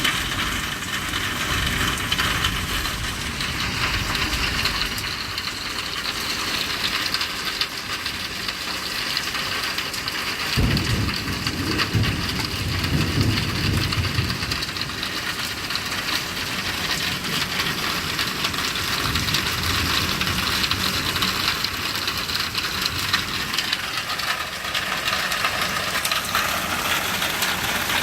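Steady rain falling during a thunderstorm, with a low roll of thunder that starts suddenly about ten seconds in and rumbles for a few seconds before fading.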